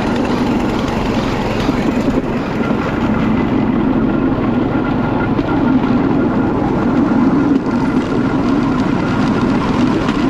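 Battambang bamboo train (norry) running along the rails, with a steady, loud mix of its motor and the rattle of the platform on the track.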